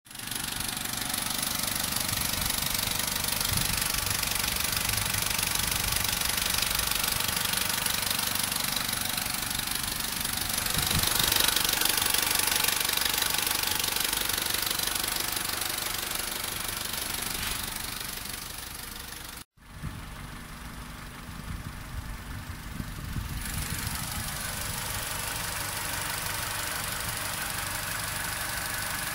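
Opel Corsa D's Z14XEP 1.4-litre four-cylinder petrol engine idling with timing-chain noise: the chain is worn and due for replacement. The engine is a little louder for a few seconds near the middle. The sound breaks off for a moment about two-thirds of the way in, then the engine is heard running again.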